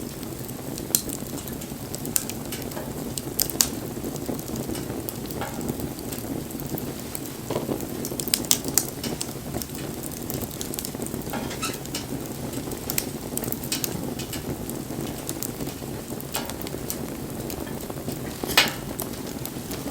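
Wood fire burning with a steady crackle and hiss, broken by scattered sharp pops, the loudest one near the end.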